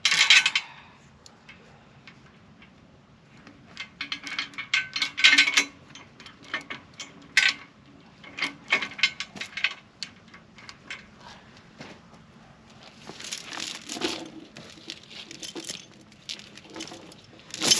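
Steel logging chain clinking and rattling in several short bursts as it is handled and wrapped around a log.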